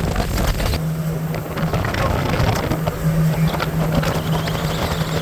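A 75 hp Mercury outboard runs at part throttle, holding the boat at about 43 mph. Its steady drone settles in about a second in, over rushing wind and water noise.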